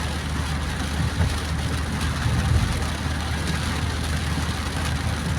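Car driving on a rain-soaked road: a steady low engine drone under an even hiss of tyres on wet asphalt and rain.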